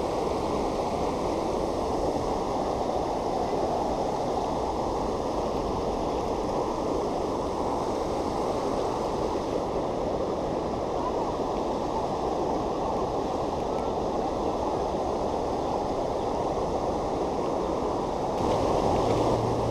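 Steady rush of water from a river waterfall. A low hum joins near the end.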